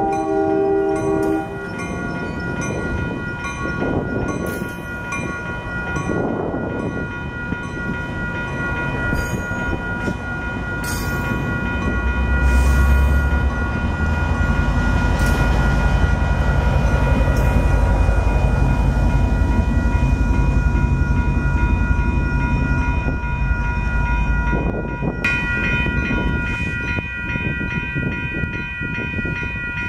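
A passenger train's horn sounds a chord that cuts off about a second and a half in. The train then passes, with a heavy low rumble from about twelve seconds in that eases off near the end. Steady high ringing tones with a regular tick run throughout.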